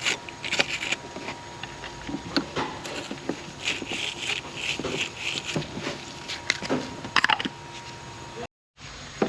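Short, repeated scratchy strokes and small clicks of a brush scrubbing acid corrosion off a car battery cable terminal, about two strokes a second for a stretch in the middle.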